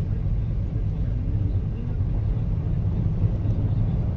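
A car being driven: a steady low rumble of engine and road noise, heard from inside the car.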